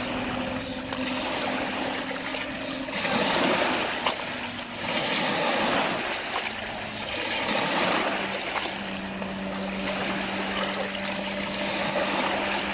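Lake water lapping and washing in repeated surges every second or two, with a steady low hum underneath.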